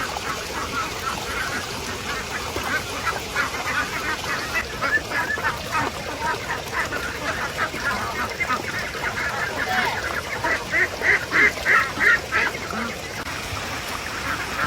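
Waterfowl calling in a rapid run of short calls, loudest about ten to twelve seconds in and stopping near the end, over a steady hiss of rain.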